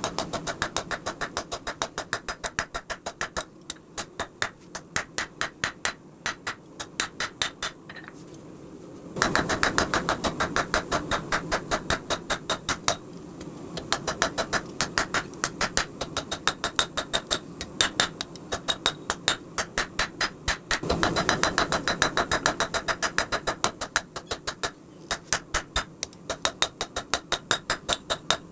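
Hammer striking steel on an anvil in a fast, even rhythm of about four blows a second, with short pauses between runs of blows, over a steady low rush.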